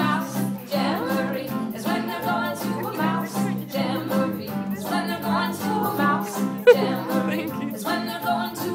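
A song with a singing voice over music, with one brief loud bump about two-thirds of the way through.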